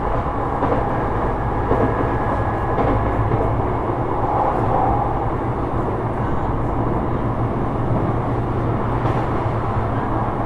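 Sotetsu 12000 series electric train with Mitsubishi IGBT-VVVF control, running along the line and heard from inside the car: a steady rumble of wheels on rails and running gear.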